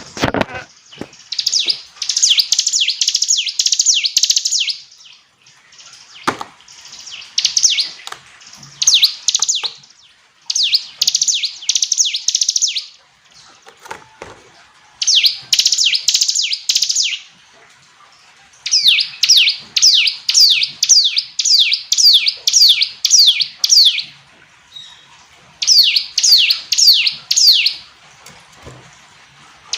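Ciblek gunung, a prinia, singing: phrases of rapid, high, downward-sweeping notes, each lasting a few seconds, with short pauses between. A few dull thumps come near the start and about six and fourteen seconds in.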